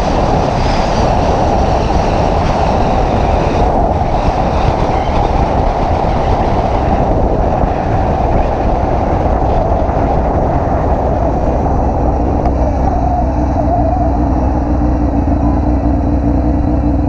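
Motorcycle being ridden, heard as a loud, steady rush of wind over the microphone with the engine note underneath. The engine settles into a steady hum in the second half.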